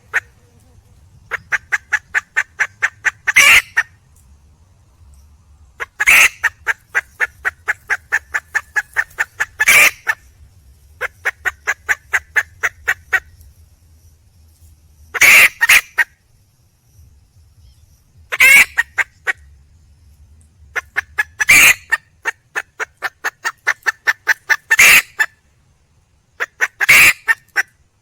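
Red junglefowl hen calling for a male: runs of quick clucks, about five a second, each run ending in a louder, harsh squawk, repeated every few seconds.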